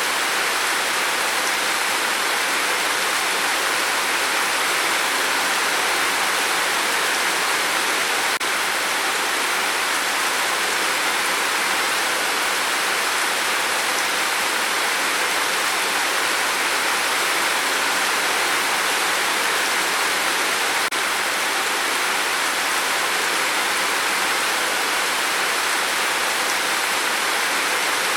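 Steady heavy rain on a tin roof: a dense, even hiss that neither builds nor lets up.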